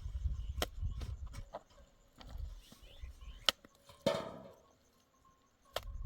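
A few sharp knocks amid low rumbling, with a short scraping sound about four seconds in.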